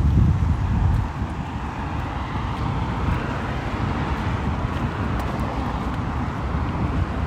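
Steady hiss of rain, with wind buffeting the microphone during the first second.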